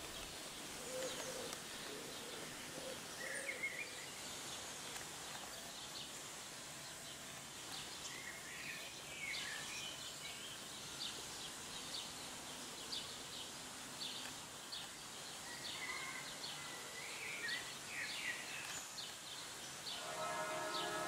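Outdoor ambience: small birds chirping and twittering again and again over a steady background hiss.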